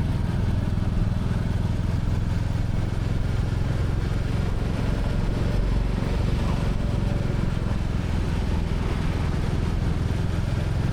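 Royal Enfield Classic 350's single-cylinder engine running steadily while the motorcycle is ridden, with a low, even exhaust note.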